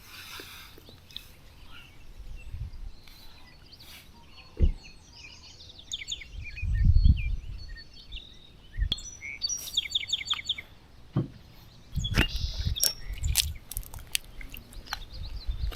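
Birds chirping and singing in short high phrases, with louder low thumps and rumbles about six seconds in and again near the end, and a few sharp clicks.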